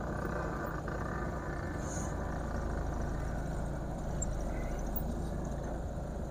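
A car's engine running, heard from inside the cabin as a steady low rumble.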